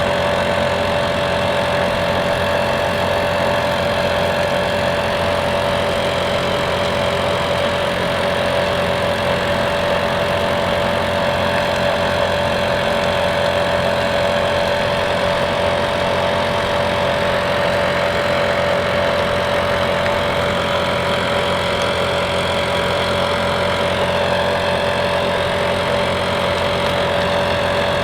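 Small petrol engine running at a steady speed, with a constant whine over it.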